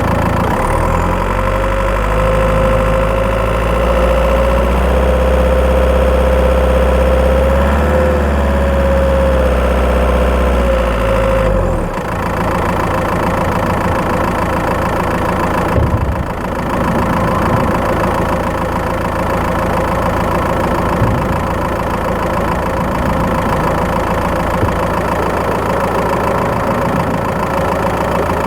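Skoda Octavia 1.9 TDI PD four-cylinder turbodiesel running, heard from inside the engine bay while driving. For about the first twelve seconds it runs under load with a heavy rumble and a steady whine, then the load drops off abruptly and the engine carries on more lightly.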